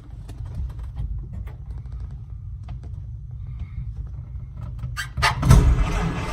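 A Ford engine being cold-started after sitting for a week. It cranks with a low rumble for about five seconds, then catches about five seconds in, flares loudly and keeps running.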